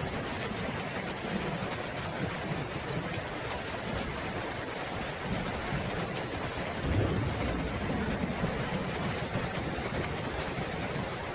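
Steady rain falling, with a low rumble of thunder swelling about seven seconds in.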